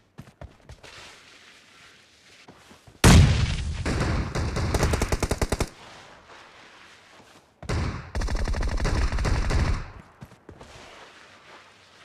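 Video-game automatic gunfire: two long bursts of rapid fire, the first starting about three seconds in and the second about eight seconds in, with quiet game background between them.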